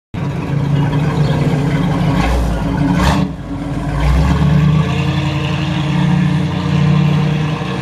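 A vehicle engine running with a steady low rumble, with a short noisy burst about three seconds in.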